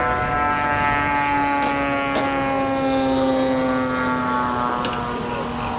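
Radio-controlled model airplane in flight, its engine and propeller making a steady droning note whose pitch slowly falls. There are a couple of faint clicks about two and five seconds in.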